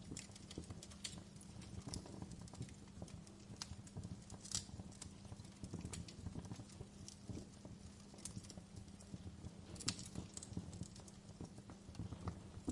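Wood fire crackling in a fireplace: a low steady rumble of burning with irregular sharp pops and snaps, two louder pops about four and a half and ten seconds in.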